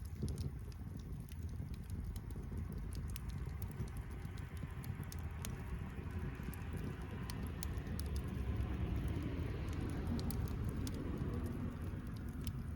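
Wood fire burning, crackling with scattered sharp pops over a low, steady rumble.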